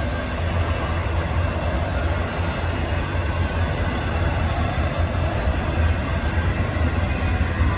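Union Pacific freight train's cars rolling past as the train slows, a steady rumble of wheels on rail.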